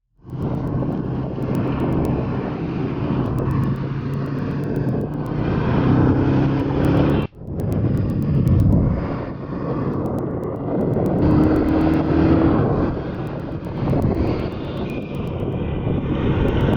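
Road traffic: vehicle engines running steadily in a busy street, broken off by a sudden cut about seven seconds in and then resuming.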